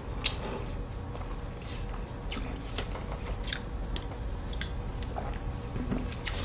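Close-miked chewing of flaky butterfly-pie puff pastry: scattered short, crisp crackles and wet mouth sounds, with a drink swallowed from a bottle around the middle.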